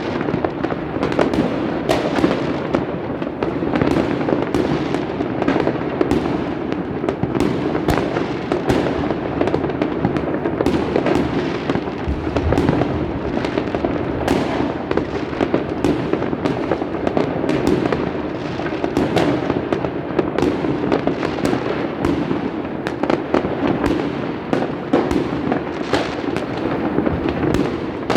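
Fireworks going off in a continuous dense barrage: overlapping sharp bangs and pops, several a second, over an unbroken rumble and crackle.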